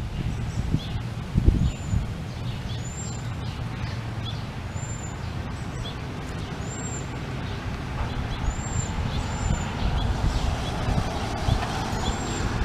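A songbird repeating a short, high, thin arched call every one to two seconds, over a steady low rumble.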